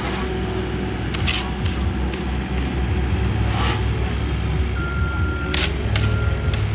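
Heavy construction machinery engines running steadily at a paving site, with a few short hissing noises. About five seconds in, a backup alarm starts beeping roughly once a second.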